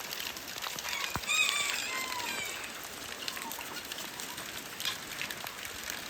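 Steady rain and running water, with a short series of high animal calls about a second in and a single sharp click.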